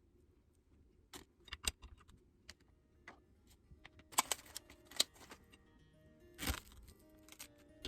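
Scattered clicks and light knocks of small kitchen items and plastic pieces being handled while rice balls are shaped, with a short rustle about six and a half seconds in. Soft background music with held notes comes in about halfway through.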